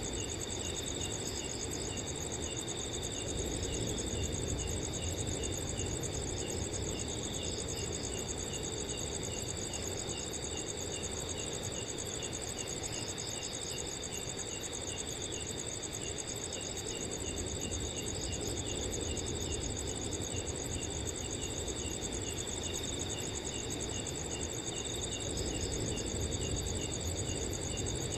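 Crickets chirping on a summer night: one steady high trill and another insect giving regular, evenly spaced chirps beneath it, with a soft low wind rumble throughout.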